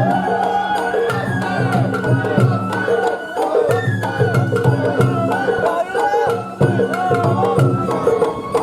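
Sawara-bayashi festival float music: a bamboo flute playing bending, sliding notes over steady taiko drumming, with sharp percussion strikes throughout.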